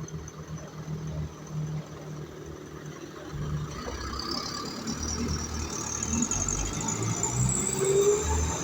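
Heavy truck engine drawing nearer and growing louder from about halfway, loudest near the end as it goes by.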